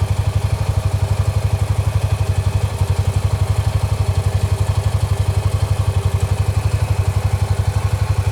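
A vehicle engine idling steadily with a rapid, even low throb.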